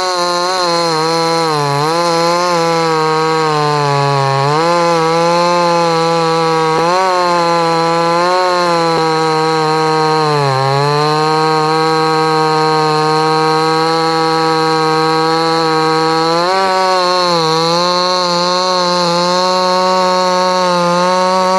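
58cc Chinese two-stroke chainsaw running at high revs while cutting very hard timber. Its note keeps dropping briefly and recovering as the chain bites and the engine bogs under load.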